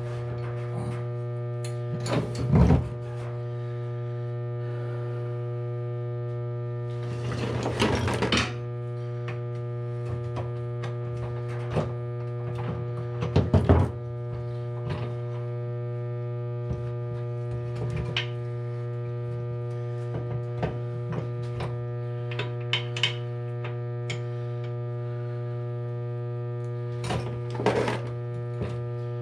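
Steady electrical hum, with occasional clinks and knocks of metal engine parts and tools being handled on the bench. There is a longer rattling clatter about seven seconds in and sharper knocks a couple of seconds in and about halfway through.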